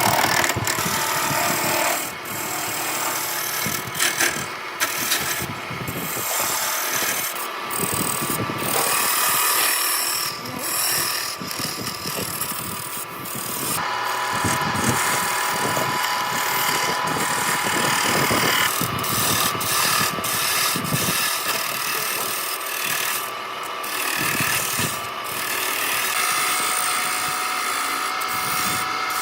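Handheld electric power tool running and working wood: a steady motor whine with the gritty noise of cutting or abrading. The pitch and load shift several times as the tool bears on the work.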